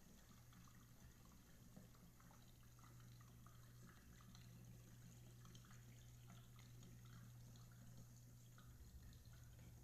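Whirlpool Gold Series dishwasher running quietly: a steady low hum with faint water splashing and dripping inside the tub.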